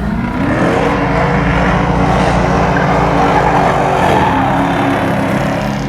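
Car engine revving up, held at high revs for about four seconds with a loud rushing noise over it, then dropping back near the end.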